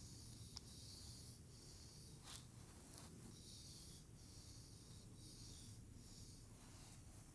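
Faint, soft strokes through hair, a dry hiss that repeats about once a second, with a few light clicks along the way.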